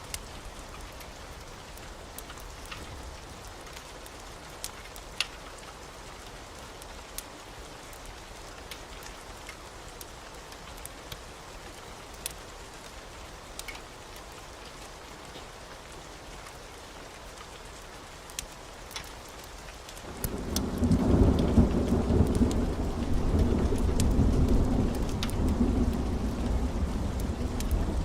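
Steady rain with scattered sharp drops ticking. About twenty seconds in, a loud low rumble of thunder sets in and keeps rolling.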